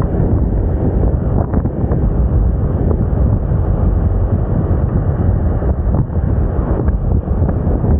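Wind buffeting a helmet or bike-mounted microphone on a moving scooter: a loud, steady, rumbling rush with no breaks. The small scooter engine is buried under it.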